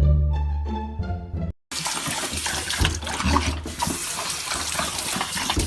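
Plucked-string background music, which stops briefly about a second and a half in; then water runs and splashes steadily with small clicks and knocks through it.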